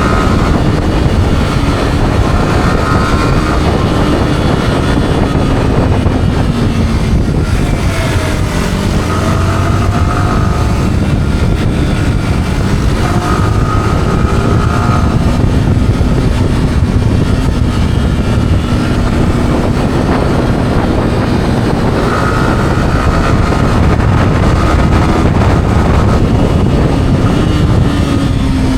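Yamaha R15's single-cylinder engine with its stock exhaust, heard while riding: the engine note rises and falls several times with throttle and gear changes. Steady wind rush on the action camera's microphone runs under it and is as loud as the engine.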